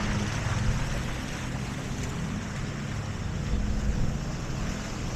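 Wind rushing and buffeting over the microphone of a moving bicycle, with a steady low hum underneath.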